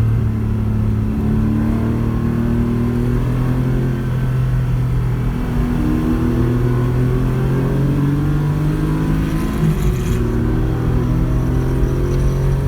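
Porsche 911 rally car's flat-six engine pulling under load, its pitch climbing steadily and falling at gear changes about five seconds in and again around ten seconds in.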